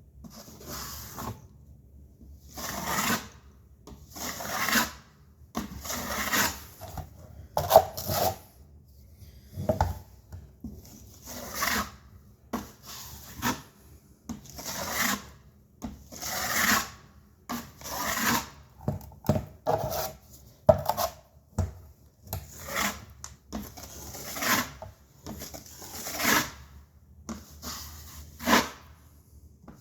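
Putty knife spreading a thin layer of joint compound (setting-type mud) over a drywall patch: a long run of short scraping strokes, roughly one a second and unevenly spaced.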